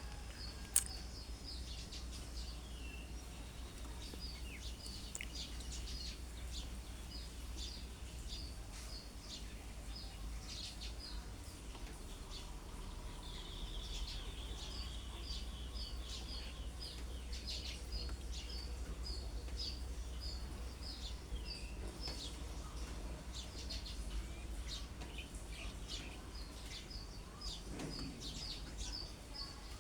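Small bird calling: a long run of short, high, evenly spaced notes, about two a second, with other chirps among them, over a steady low rumble of background noise.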